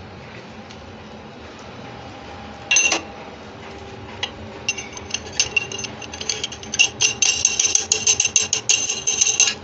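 Plastic parts of a sink bottle trap being handled: a brief loud rattling scrape about three seconds in, then rapid clicking and scraping from about five seconds in.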